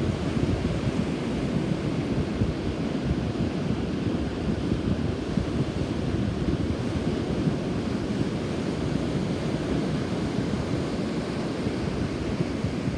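Rough surf washing steadily onto a beach, the sea churned up by a passing typhoon, with strong wind buffeting the microphone in a low, fluttering rumble.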